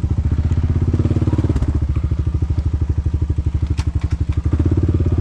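Quad bike (ATV) engine running at low revs with a steady, even pulsing, as the quad is manoeuvred slowly in mud.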